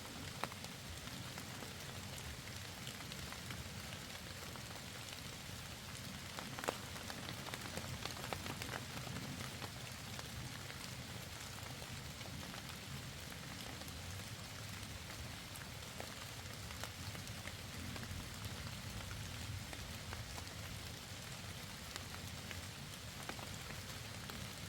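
Steady rain falling, an even hiss of many drops with scattered sharper drop ticks, the loudest about six and a half seconds in.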